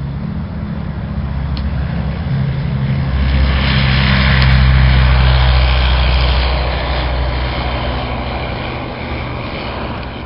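Propeller aircraft engine running with a steady low drone, growing louder to a peak about halfway through and then fading away.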